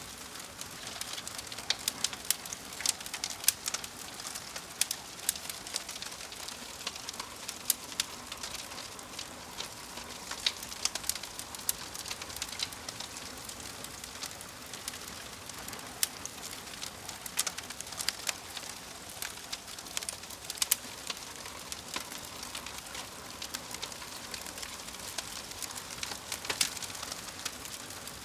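Wood fire burning in a fireplace: logs crackling with frequent irregular sharp pops over a steady hiss.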